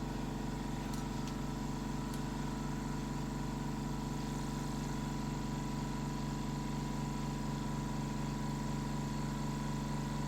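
Bridgeport milling machine's motor running steadily with an even, unchanging hum.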